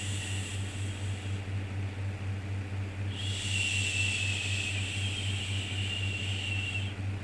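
Soothing 'shhh' shushing sound for calming a baby: the tail of one long shush fades in the first half-second, then another starts about three seconds in and is held for about four seconds. A steady low hum runs underneath.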